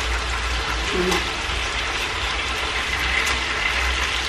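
Chicken pieces sizzling and crackling steadily in hot oil in a frying pan, with a couple of light clicks as a utensil turns them.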